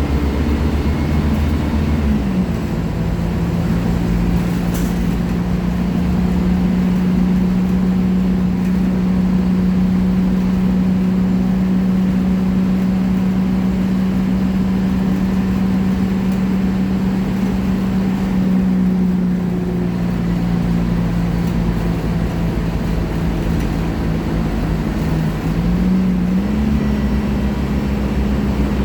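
Scania K310 five-cylinder diesel engine of an articulated BRT bus running steadily as the bus drives. Its note drops slightly about two seconds in, sags again around twenty seconds, and climbs back up near the end.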